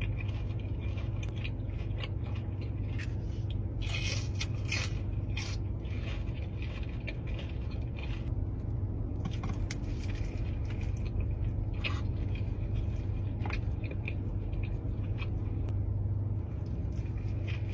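A person eating crunchy food: scattered crisp bites and crunches with chewing, over a steady low hum.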